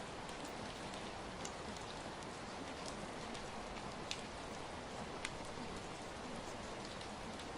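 Steady rain falling, with individual drops ticking now and then over the even hiss; two sharper drops stand out about four and five seconds in.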